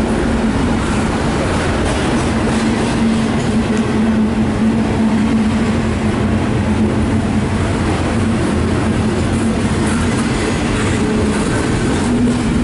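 CSX double-stack intermodal freight train's container-laden well cars rolling past: a steady, loud rumble and rattle of wheels on rail, with a steady humming tone underneath.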